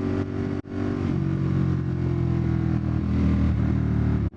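Ducati Monster 1200's L-twin engine pulling under throttle, heard from the rider's position. About two-thirds of a second in and again near the end the sound cuts out for an instant, and after the first cut the engine note settles lower, as on an upshift.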